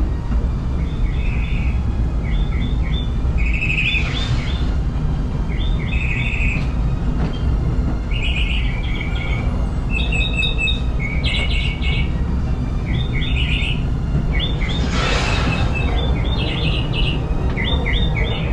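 Steady low rumble of the Disneyland Railroad steam train running along the track, with birds chirping repeatedly over it and two short surges of hiss, one about four seconds in and one near fifteen seconds.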